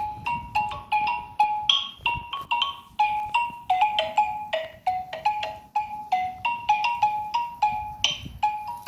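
Xylophone played with mallets: a steady run of single struck notes, about three or four a second, stepping among a few neighbouring pitches, each ringing briefly.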